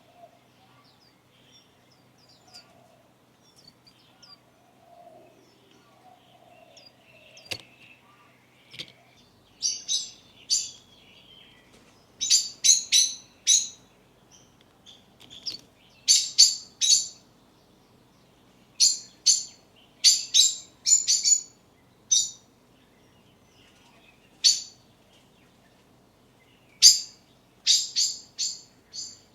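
Swinhoe's white-eyes calling: short, sharp, high chirps in quick runs of two to four, starting about ten seconds in and recurring every few seconds. The first third is faint, with a single click partway through.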